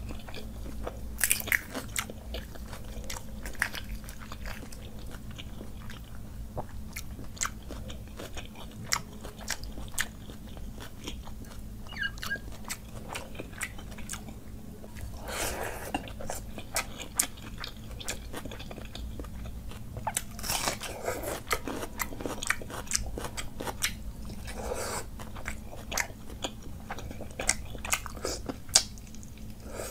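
Close-miked eating: a person chewing and crunching mouthfuls of panta bhat (water-soaked rice) with dry red chillies, with many short crisp crunches throughout. A few longer wet sounds come about halfway and later.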